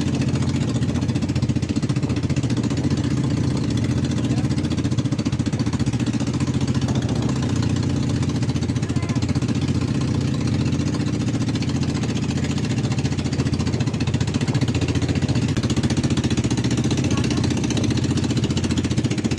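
A motor engine running steadily at an even speed, with a rapid, regular chugging.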